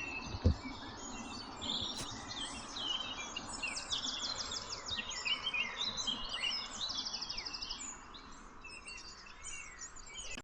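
Several songbirds singing and calling over each other, with rapid repeated-note trills around the middle. There is a soft low thump about half a second in.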